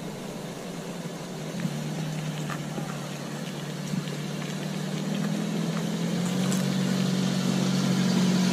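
Nissan NV200 camper van's engine running on the move, a steady low hum whose pitch steps up slightly a couple of times as it grows gradually louder.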